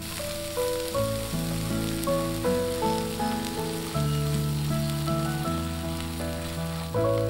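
Taro stems sizzling as they are stir-fried in a cast-iron wok, a steady frying hiss. A gentle melody of single held notes plays over it.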